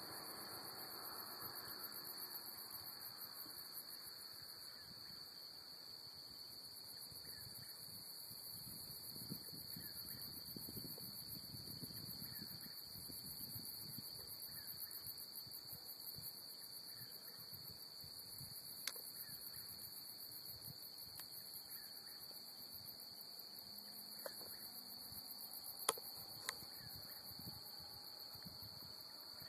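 A steady chorus of night insects, an even high-pitched trill with a fainter pulsing shrill above it. A few sharp clicks sound, the loudest about three-quarters of the way through.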